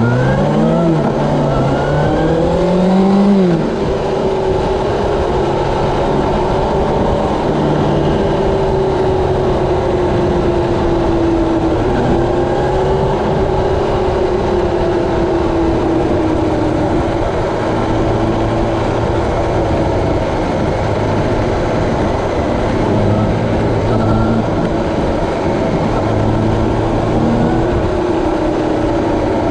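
Honda CB750 inline-four motorcycle engine pulling hard, its pitch climbing steeply for the first few seconds, then running at a fairly steady cruising pitch that drifts slowly up and down, with a constant rush of wind noise.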